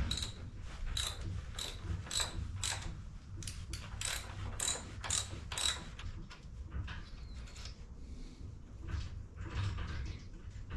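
Hand ratchet wrench being worked back and forth, a run of sharp ratcheting clicks at about two a second that thins out and grows weaker after about six seconds.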